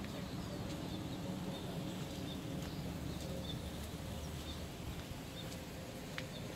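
Small birds chirping faintly and repeatedly over a steady low rumble.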